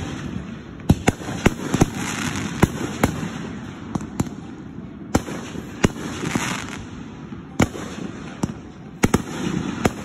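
Aerial fireworks shells bursting: a dozen or so sharp bangs at uneven intervals, with crackling and a rumbling echo between them.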